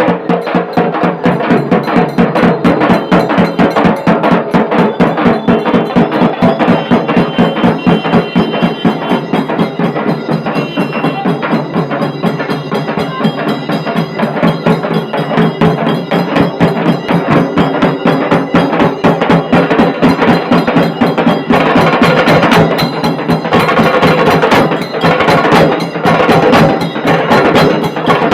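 Dhol tasha band playing loudly: tasha drums beaten with sticks in fast, dense rolls over dhol. About three-quarters of the way through, the playing becomes brighter and fuller.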